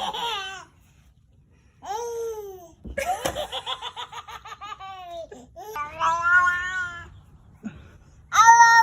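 A baby's high-pitched vocalising: short falling squeals, then a run of quick, rhythmic giggles, and a long held squeal near the end.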